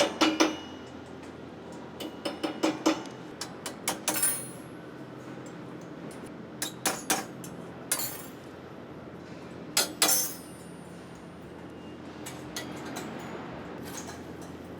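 Metal parts clinking and clattering as they are handled and set down: irregular sharp knocks in small clusters with short rings, over a faint steady hum.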